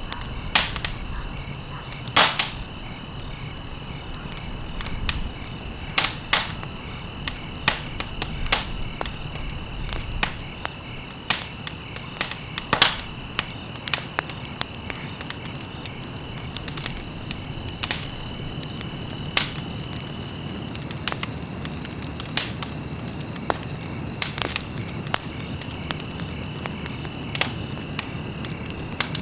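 Wood fire crackling, with sharp irregular pops every second or so over a soft hiss. A steady high-pitched tone runs underneath.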